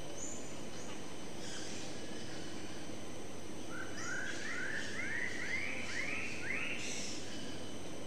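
King bird-of-paradise calling during its display: a run of about seven short notes, each sweeping upward and each pitched a little higher than the last, starting about halfway through, over a steady background hiss.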